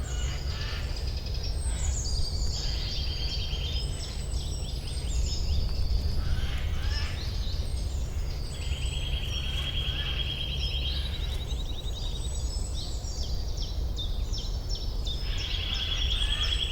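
Forest birdsong: several birds singing overlapping chirps and phrases, with long rapid trills in the middle and near the end, over a steady low background rumble.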